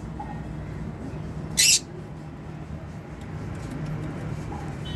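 Lovebird giving one short, loud, harsh screech about one and a half seconds in, over a steady low hum.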